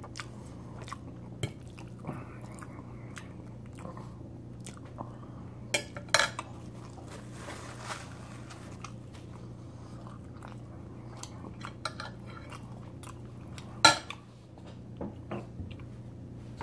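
Close-up chewing and mouth sounds of someone eating chicken Alfredo spaghetti, with scattered small clicks and a few sharper knocks, the loudest about fourteen seconds in. A soft rustle of a napkin wiped across the mouth comes about halfway through, over a steady low hum.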